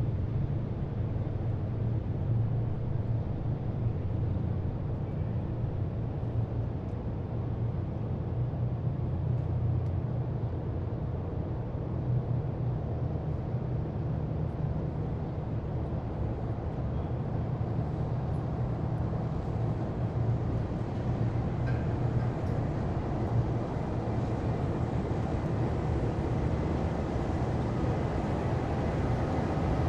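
Heavy military vehicles' engines running steadily, a low even rumble with no sudden changes.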